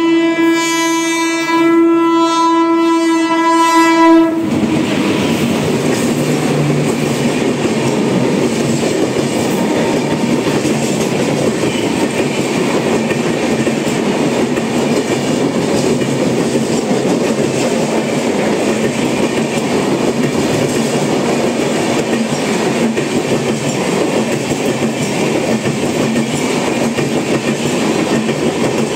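An express train's horn sounds one long, steady blast that stops about four seconds in. The train then runs through the station at speed, its coaches and wheels making a steady, loud noise on the rails as they pass.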